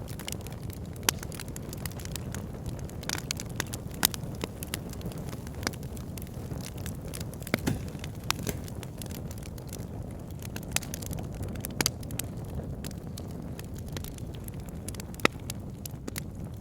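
Wood fire burning in a log burner: a steady low rumble of flame with frequent sharp crackles and pops from the burning logs, a few of them louder than the rest.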